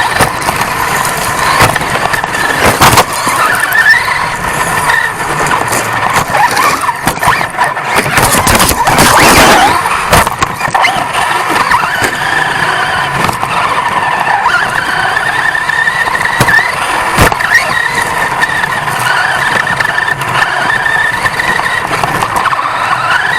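A 1/10-scale off-road RC truck racing, picked up by a camera mounted on the truck itself: its motor and gears whine, rising and falling as it speeds up and slows, over tyre and chassis noise, with sharp knocks as it hits bumps.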